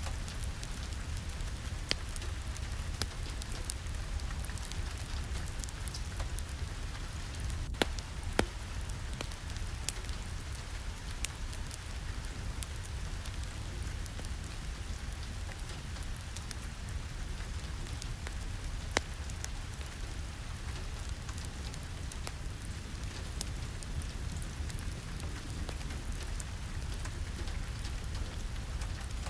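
Steady rain falling, an even hiss over a low rumble, with scattered sharp clicks of single drops or small pops now and then.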